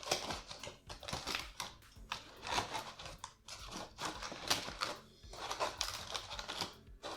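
Stiff cardboard pieces being handled and slotted together: irregular scraping and rustling with light clicks and taps.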